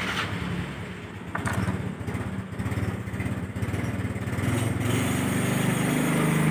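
A small engine or motor running with a steady low buzz, getting louder over the last couple of seconds.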